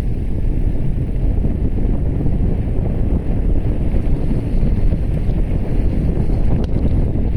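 Wind buffeting a camera microphone while cycling: a steady, loud low rumble with no pauses.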